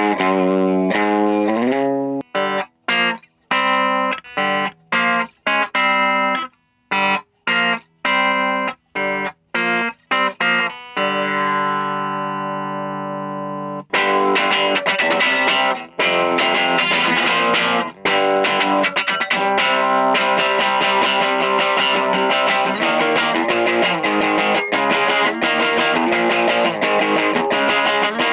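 Electric guitar on its bridge pickup through a Vox Lil Night Train 2-watt all-tube amp set to a crunch tone. Short, separated chord stabs with gaps come first, then a chord left ringing and fading for about three seconds. About halfway through, continuous busier playing begins.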